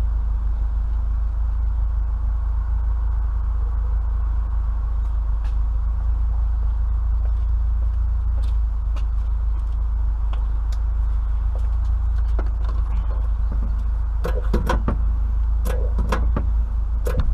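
Steady low rumble throughout, with a quick run of knocks and clatters in the last few seconds.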